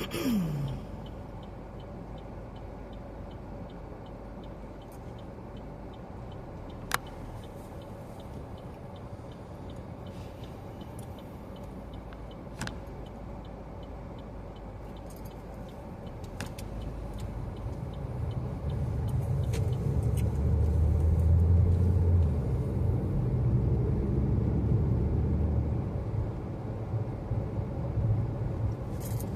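Inside a moving car: a steady engine and road rumble that grows louder and deeper a little past the middle as the car speeds up, with a few single sharp clicks.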